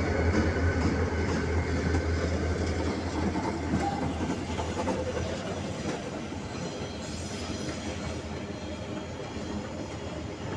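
Empty iron-ore train hauled by EMD SD40 diesel locomotives rolling past, its wheels clattering over the rail joints. A low diesel engine drone fades away over the first half as the train noise slowly dies down.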